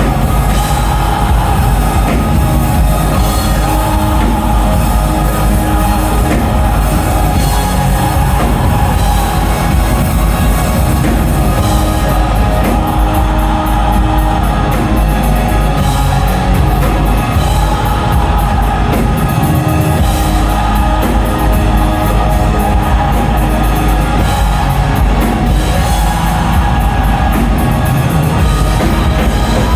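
A metal band playing live, with distorted guitars and a drum kit in a loud, dense wall of sound. About twelve seconds in, fast rhythmic hits join and thicken it.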